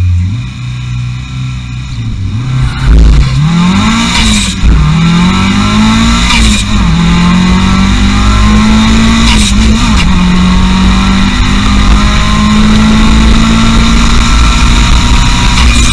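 Race car accelerating at full throttle down a drag strip. Its engine note climbs and drops sharply at three gear changes, each with a brief crack, then holds high and steady near the end.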